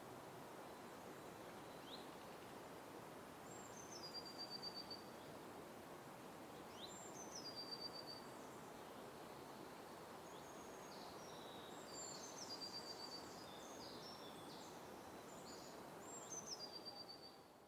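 Songbirds calling faintly over a steady low background hiss. A high note slides down into a quick run of notes at one pitch, repeated three times, with a busier spell of chirping in between.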